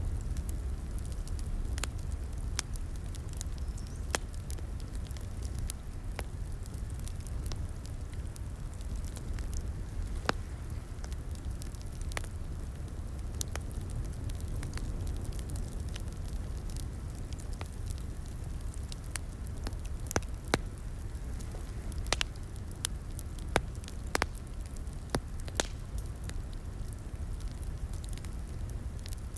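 Wood fire crackling in a fireplace: a steady low rumble of flames with irregular sharp pops, a few of them louder in the second half.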